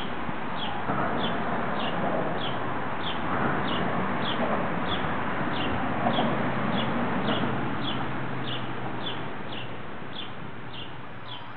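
A small bird chirping the same short note over and over, about twice a second, over a steady rushing background noise.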